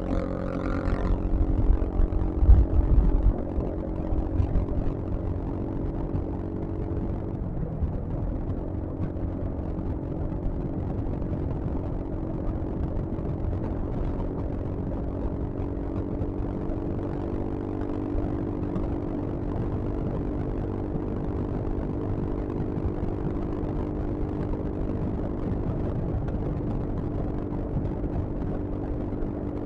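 Yamaha XMAX scooter engine droning steadily while riding, with wind rumble on the helmet or bike microphone; gusty low buffeting in the first few seconds, and the engine note shifts about seven seconds in and then holds steady.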